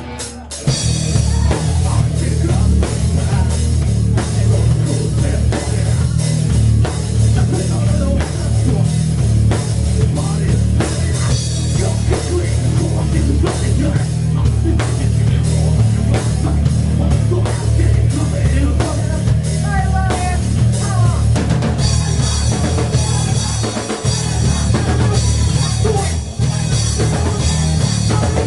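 Heavy rock band playing, with a hard-hit drum kit and guitar, coming in loud about half a second in after a brief lull.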